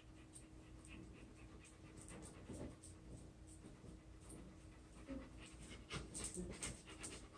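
A dog panting faintly, with quicker, sharper breaths near the end.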